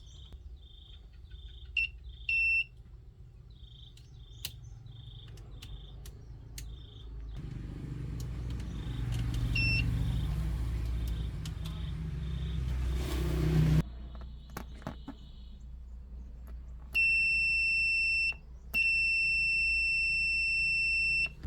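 Insects chirping at an even rate, then an engine runs for about six seconds, rising, and stops suddenly. After that a loud, high electronic beep sounds twice: about a second and then about two and a half seconds.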